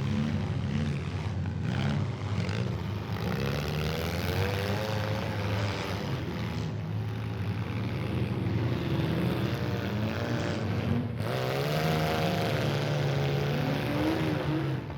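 Several demolition derby vehicles' engines running and revving at once, their pitches rising and falling over one another.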